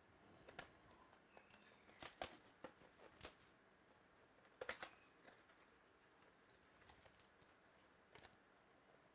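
Faint handling of trading cards: scattered small sharp clicks and light rustles, the loudest about two and five seconds in, over a quiet room.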